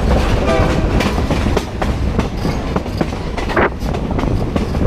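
Passenger train car rumbling along the track, with frequent irregular clacks and rattles from the wheels and car body.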